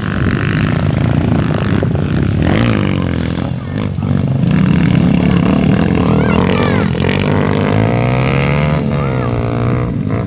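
Several dirt bikes riding past close by, their engines revving up and down and overlapping.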